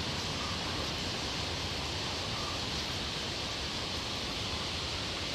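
Steady outdoor hiss of forest ambience, even and unbroken and strongest high up, with no distinct events.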